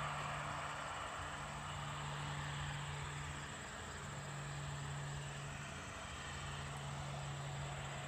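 Distant airliner jet engines running steadily: an even hiss with a low hum that fades in and out.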